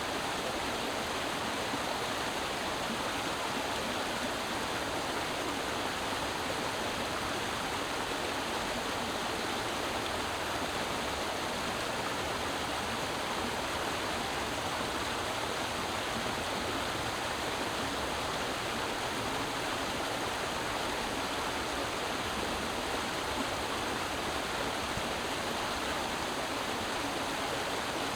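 Creek water flowing and splashing over rocks in a steady, even rush.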